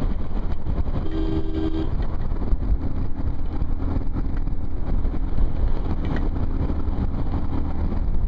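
Motorcycle ride in strong wind: a steady low rumble of wind buffeting and engine noise, with a vehicle horn sounding once for just under a second, about a second in.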